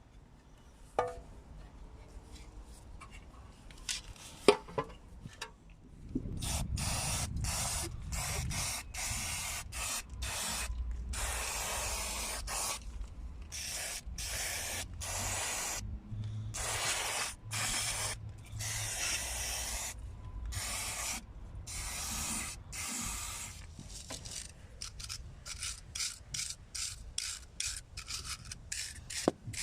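Hand scraping and abrasive rubbing on the oil pan sealing surface, cleaning off old gasket sealant: a long run of quick, uneven back-and-forth strokes starting about six seconds in, after a couple of light knocks.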